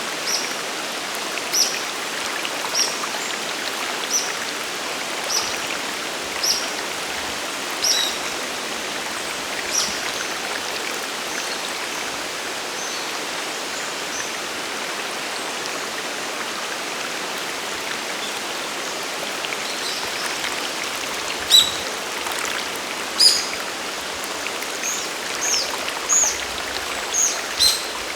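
Steady rush of a waterfall and mountain stream. Over it a bird repeats short high chirps about once a second, stops for several seconds midway, then chirps again more loudly and quickly near the end.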